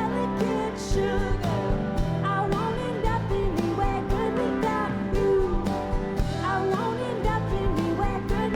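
Live band performing a country-tinged indie rock song: a lead vocal sings over guitars, bass and a steady drum beat.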